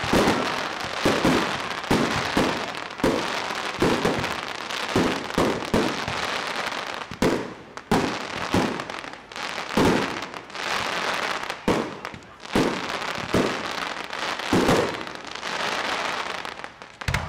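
Fireworks display: aerial shells bursting in quick succession, sharp bangs about one or two a second over a continuous crackle from the crackling stars.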